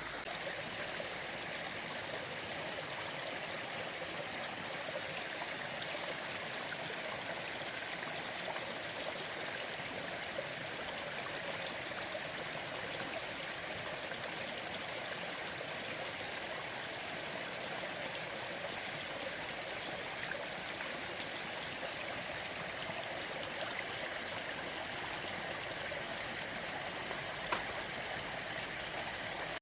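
Water flowing steadily, as in a stream, with a steady high-pitched whine above it.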